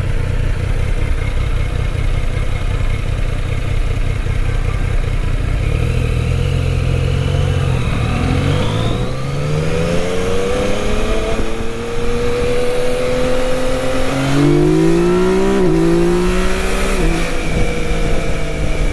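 Yamaha Tracer 900 GT's inline three-cylinder engine idling in gear at a stop, then rising in pitch as the motorcycle pulls away and accelerates. About three-quarters of the way through, the pitch drops briefly at a gear change and climbs again.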